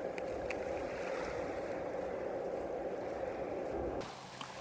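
Steady wash of small sea waves on a beach, an even rushing noise with a few faint ticks, which drops off suddenly near the end.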